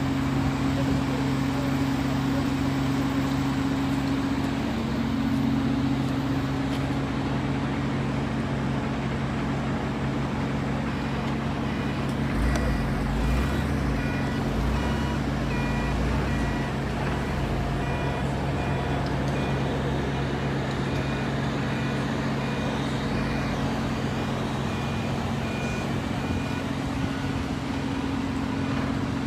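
Steady low engine drone with a constant hum, and a deeper rumble that swells about halfway through for a few seconds. Faint short beeps repeat through the middle stretch.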